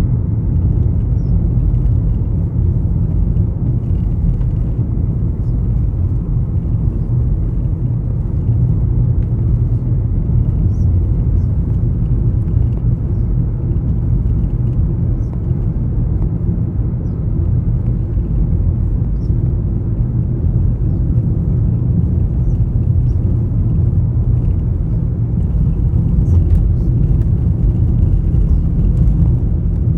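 Steady low rumble with no clear rhythm or pitch, unchanging throughout, with a few faint high ticks.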